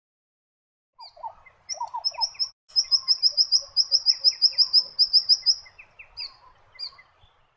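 Honeyeater singing, starting about a second in. Its fast, evenly repeated high notes come about six a second in the middle stretch, mixed with lower, slurred notes.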